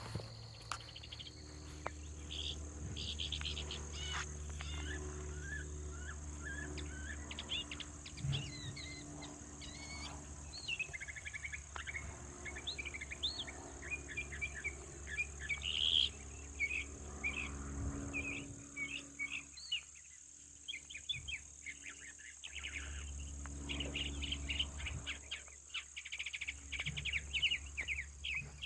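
A chorus of songbirds chirping and singing, with many short calls and quick trills, over a steady high-pitched insect trill.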